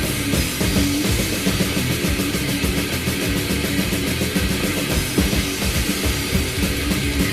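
Technical thrash/death metal recording: distorted electric guitars over fast, dense drum-kit playing, continuing steadily.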